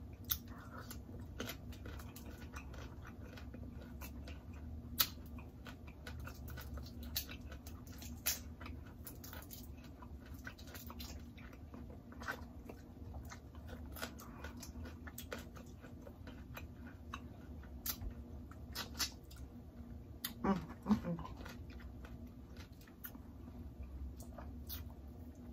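Close-miked chewing of a mouthful of seafood boil, mouth closed, with scattered wet clicks and smacks that come irregularly and are fairly quiet.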